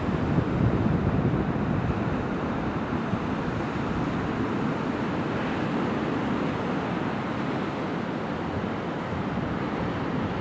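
Steady rushing wind on the microphone over the low run of a moving vehicle, as heard riding in an open trailer.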